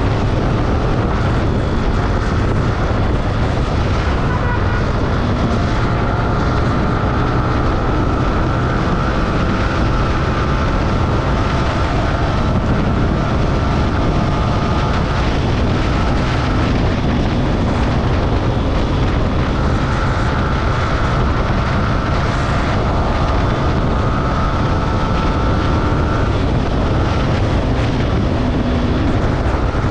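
Motorcycle riding at steady speed, engine running under heavy wind noise on the microphone.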